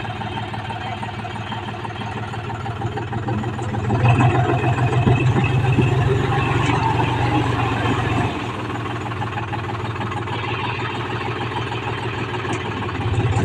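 A John Deere tractor's engine running steadily, louder for a few seconds in the middle before settling back.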